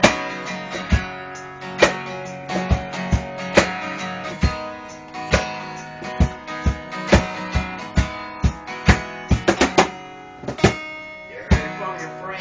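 Instrumental break of a country song: acoustic guitar strummed and picked over a steady cajon beat, with a quick run of hits near the end.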